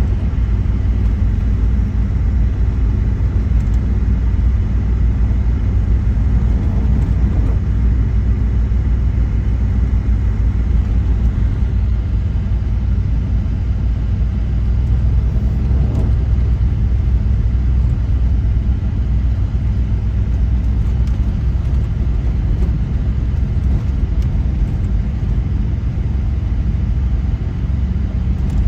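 Vehicle driving slowly down a snowy mountain road: a steady low rumble of engine and tyres.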